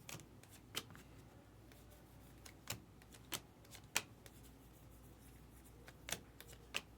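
Trading cards being handled and flipped through by hand: about seven short, sharp card clicks at irregular intervals.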